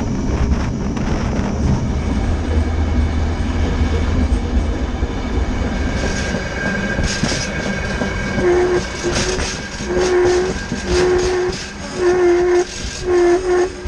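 Railroad cars rolling along the track with a low rumble. From about eight seconds in, a train horn sounds a series of short blasts.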